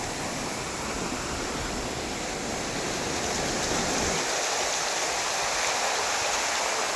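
A rain-swollen stream in flood rushing past in a steady, even wash of fast water. A low rumble underneath drops away about four seconds in.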